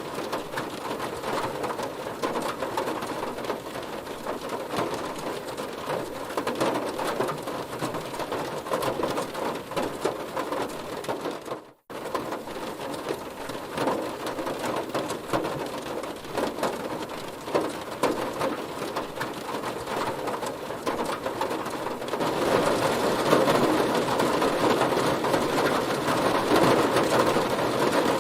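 Heavy rain falling on a car, a dense, steady patter of drops. It cuts out abruptly for a split second about twelve seconds in, then resumes, and grows louder for the last few seconds.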